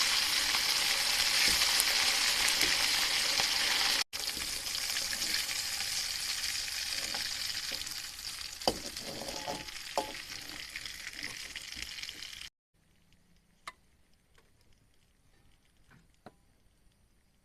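A dense, steady hiss that breaks off for an instant about four seconds in, then carries on, easing, with a few sharp clicks. About two-thirds of the way through it cuts off suddenly, leaving a much quieter background with scattered faint ticks.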